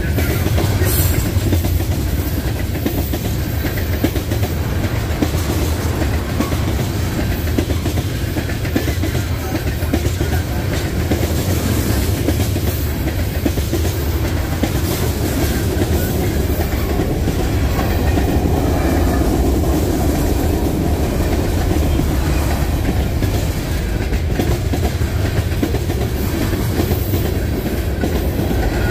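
Freight train cars rolling past close by: a steady, loud rumble with the clatter of steel wheels on the rails.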